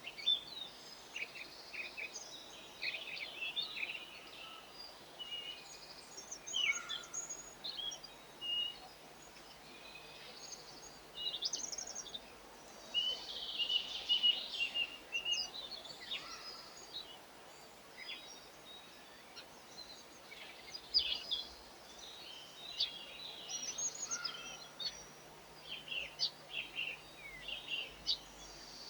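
Garden birds chirping and calling: many short, high chirps and brief trills overlapping, coming in bursts with short lulls between.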